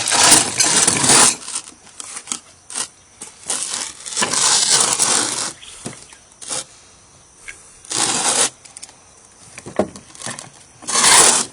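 Wood under a house being jacked up, crunching and grinding in several loud bursts of a second or two as the jack puts pressure on the beam and its blocking.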